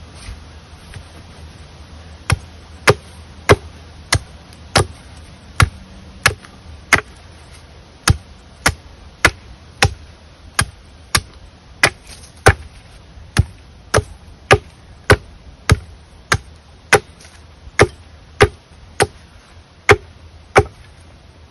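Wood being chopped with a blade: about two dozen steady, sharp strikes, roughly one and a half a second, starting about two seconds in, with a short pause about a third of the way through.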